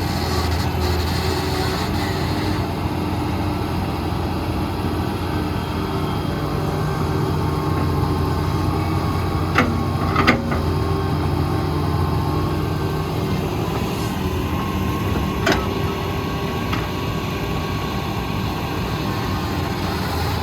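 Heavy construction machinery engines running steadily at a low rumble, with a few sharp metallic clanks around the middle.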